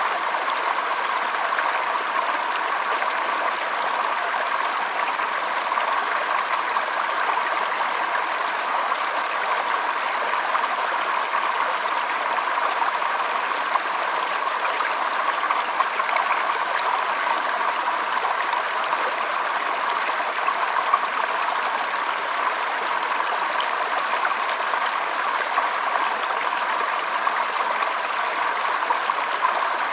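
Shallow stream, water trickling and flowing over stones in a steady, even rush.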